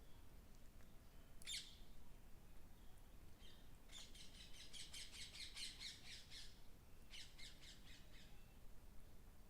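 A bird chirping faintly: one short call about a second and a half in, then two runs of rapid, repeated high-pitched chirps.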